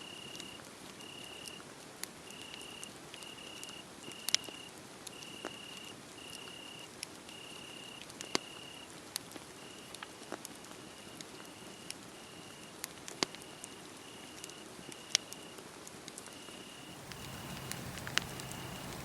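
Wood fire crackling with scattered sharp pops, a few of them loud, over a cricket chirping in a steady pulse of about two chirps a second. Near the end a low hum comes in under them.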